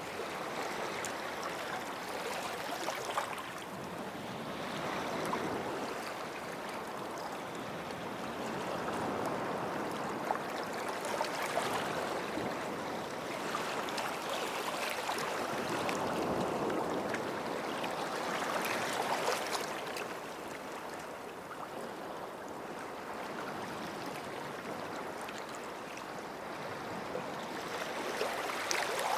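Small sea waves washing onto a beach shore, a continuous wash that swells and ebbs every few seconds.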